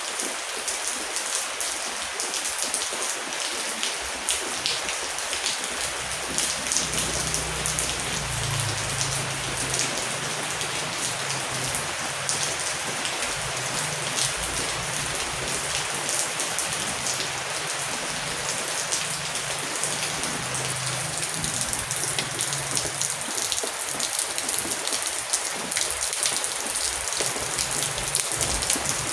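Heavy rain falling steadily, a dense patter of drops. A low rumble of distant thunder comes in about seven seconds in and fades out a few seconds before the end.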